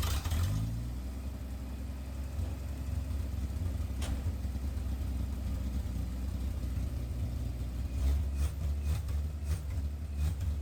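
1968 Chevy C20's inline-six engine running on a freshly rebuilt Rochester Monojet carburetor with only a rough starting tune: it rises in pitch in the first second, then idles steadily, a little louder and rougher about eight seconds in.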